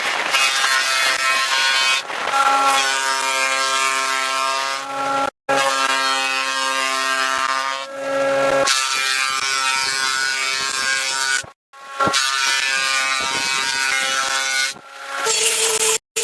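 An electric power tool running with a steady motor hum and cutting into wood, the hiss of the cut over it. It is heard in several stretches that break off abruptly.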